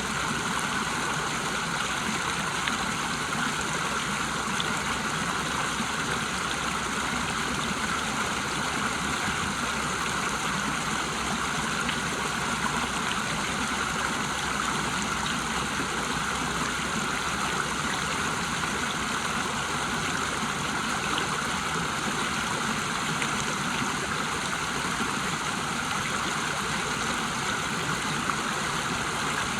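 A river waterfall rushing, a steady, unchanging wash of water noise.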